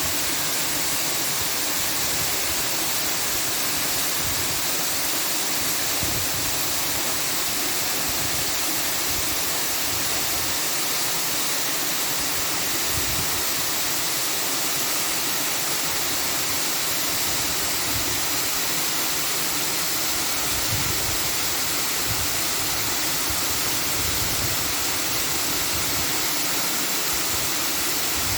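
A steady, even rushing hiss that never changes or breaks, strongest in the treble.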